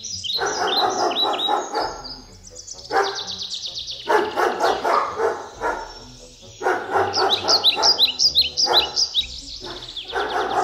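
A dog vocalizing in a series of bursts, some short and some up to about two seconds long, over a running stream of quick, high, repeated bird chirps.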